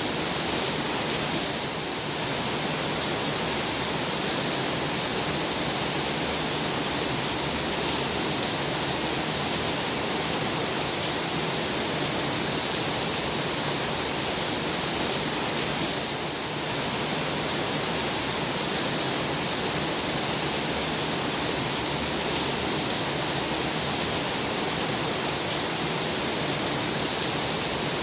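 Heavy rain pouring steadily as a dense, even hiss, dipping slightly twice for a moment.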